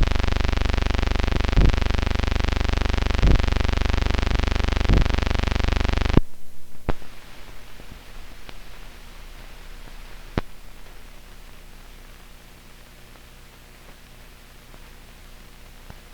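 Loud electrical buzz with many overtones and a soft click about every second and a half, typical of a blank old film soundtrack. About six seconds in it cuts off abruptly, leaving faint hiss with a few scattered clicks.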